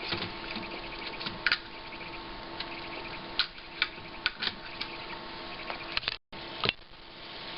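Irregular sharp ticks from the monitor's power supply board once the power cable is connected, over a steady electrical hum. The ticking is the fault the technician traces in a monitor that will not switch on.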